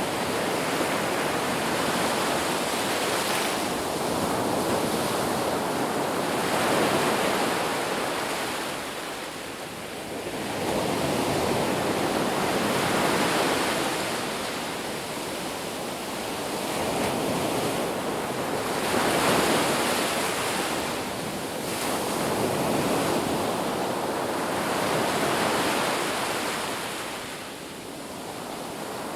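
Ocean waves washing onto a beach, a steady rushing wash that swells and eases every few seconds.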